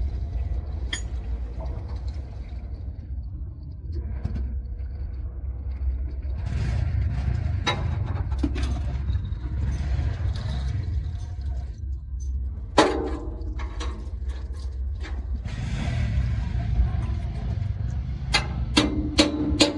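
A steady low mechanical rumble with scattered sharp metallic clanks and knocks, several coming close together near the end.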